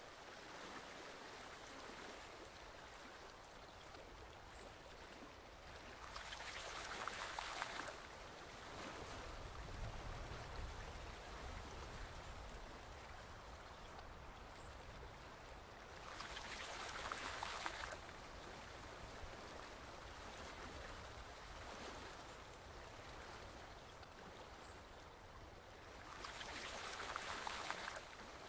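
Forest stream flowing steadily, the water swelling louder for about two seconds roughly every ten seconds.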